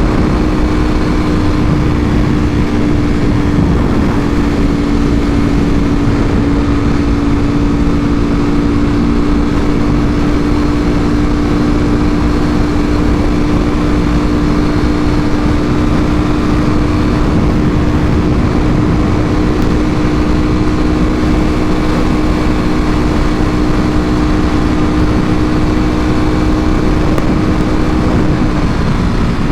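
Ducati Panigale V4R's V4 engine through an Akrapovič full exhaust, held at steady revs with an unchanging pitch, over a low rushing noise.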